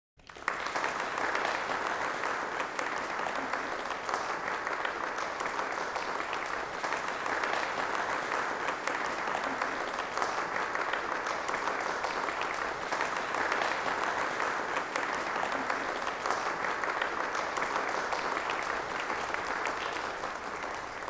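Many hand claps with reverb, layered into a dense, steady patter that imitates rain: a rain sound effect made from claps. It fades in at the start and dies away just before the end.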